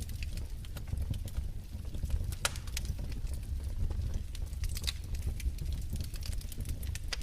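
Wood fire in a fireplace crackling: irregular sharp pops and snaps over a steady low rumble of the flames, with a louder pop about two and a half seconds in.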